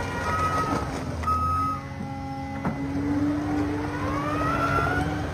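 A vehicle's reversing alarm beeping at an even pace over a running engine, stopping about a second and a half in; then the engine revs up with a steadily rising pitch.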